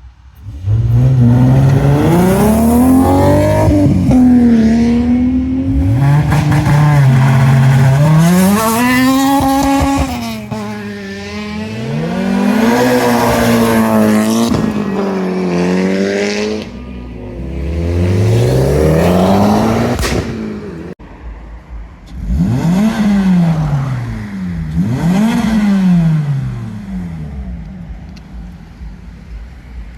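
Modified Japanese car engines revving hard, the pitch climbing and falling through several rev cycles. The sound breaks off suddenly about two-thirds of the way through and picks up again with quieter revs.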